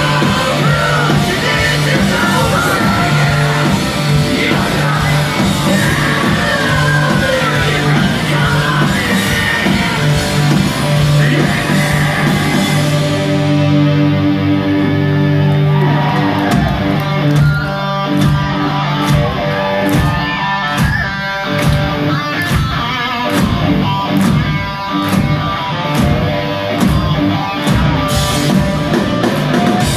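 Live hard rock band playing loud, with distorted electric guitars, bass and drums and a shouted vocal in the first half; about halfway through the band drops into a sparser passage marked by separate drum and guitar hits, as heard through a phone recording in the hall.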